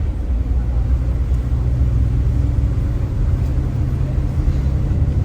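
Steady low rumble of engine and road noise heard from inside a moving vehicle, with a faint steady hum above it.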